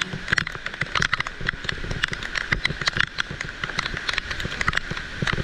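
Heavy rain falling, with a dense, steady patter of sharp drop impacts close by.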